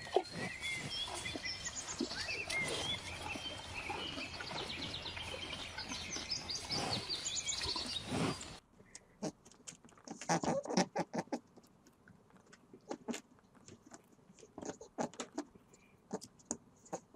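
Small birds chirping over a steady outdoor hiss. After about eight and a half seconds this cuts to a rabbit munching grass: a run of short, crisp crunches in irregular clusters.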